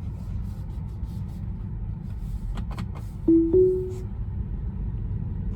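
Steady road and tyre rumble inside a Tesla's cabin, with a few light clicks and then, about three seconds in, a short two-note chime rising in pitch, the sound a Tesla makes when Autopilot or FSD engages.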